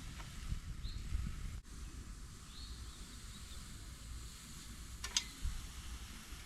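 Quiet outdoor ambience: a low, rumbling wind-like noise with a few faint, short bird chirps in the first few seconds.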